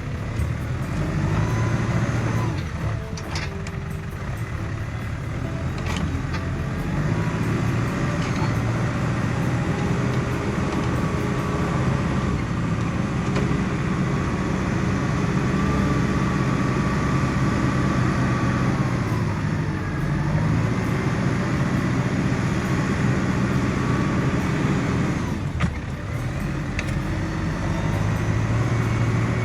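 New Holland T5060 tractor's diesel engine running steadily under load, its pitch shifting every few seconds. A few sharp knocks or cracks sound over it, about three seconds in, around six seconds, and near the end.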